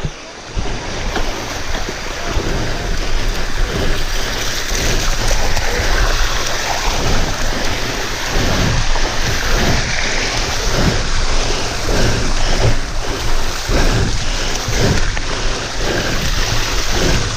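Waterfall water rushing steadily over the rocks, with wind buffeting the GoPro's microphone. Short low thumps come every half second or so through the rush.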